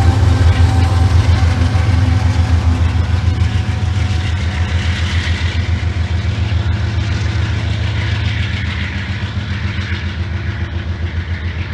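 Freight train rolling past, a loud low rumble that pulses evenly, with its higher hiss and overall level slowly fading as it moves away.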